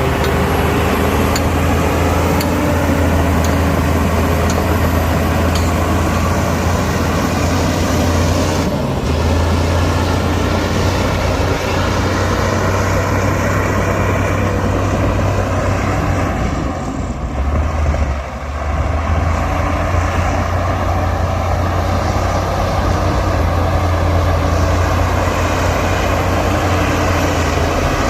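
Heavy diesel engine of earthmoving machinery running under load, a steady low rumble that eases off for a moment past the middle.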